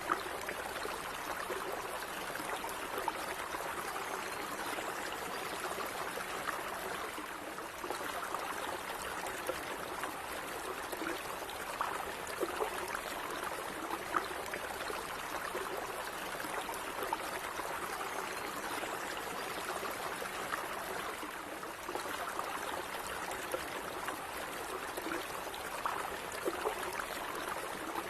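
A small stream of water running and trickling steadily, with little splashes and gurgles over an even rush.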